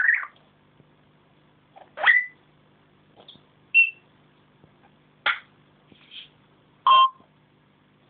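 African grey parrot making a string of short, separate squawks and beep-like whistles, roughly one every second or two.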